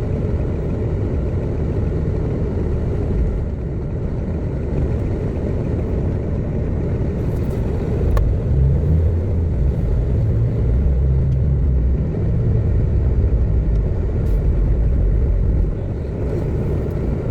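Car on the move: steady engine and road rumble, which grows heavier about halfway through and eases near the end.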